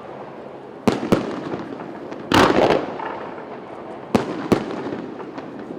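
Aerial fireworks shells bursting in a starmine sequence. Sharp bangs come about a second in, then a louder cluster just past two seconds, then two more after four seconds, with an echoing rumble and crackle between them.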